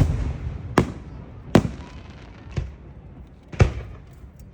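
Fireworks going off: five sharp bangs in about four seconds, at uneven spacing, the fourth weaker than the others, each trailing off in a short rumble.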